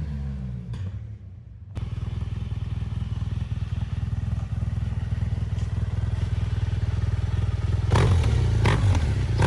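BMW R1200GS flat-twin boxer engine running through a LeoVince aftermarket exhaust. It dips briefly about a second in, then runs steadily at idle, with three short louder pulses near the end.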